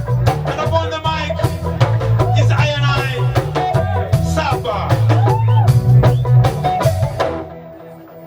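Reggae band playing a lovers rock song: a heavy bass line with drums, guitar and a wavering lead voice or instrument line. The music drops almost away about seven and a half seconds in, then starts up again.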